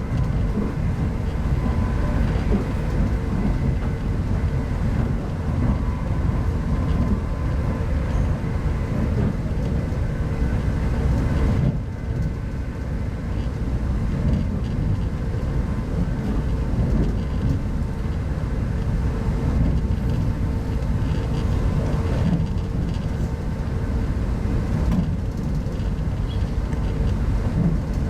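Steady running rumble of a 25T passenger coach at speed, heard from inside the carriage: wheels on rail and the coach's running noise, with a faint steady hum. The level dips slightly about twelve seconds in.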